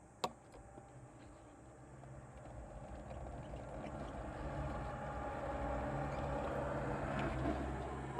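A sharp click just after the start, then a motor vehicle's engine hum that grows gradually louder over several seconds and eases slightly near the end.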